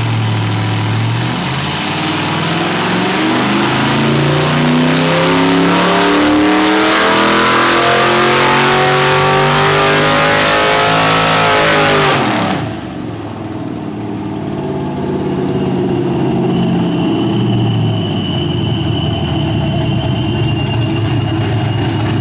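6.0-litre LQ9 V8 with a stage 2 cam making a full-throttle pull on a chassis dyno: the engine note climbs steadily for about eleven seconds. Then the throttle is shut suddenly and the revs fall away, leaving a lower running sound with a steady high whine as it coasts down.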